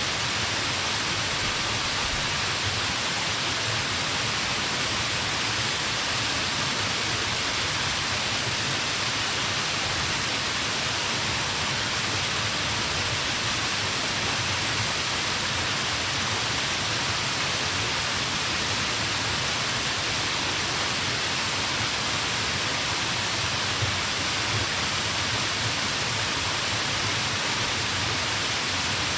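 Small mountain waterfall: water falling and splashing in a steady, even rush.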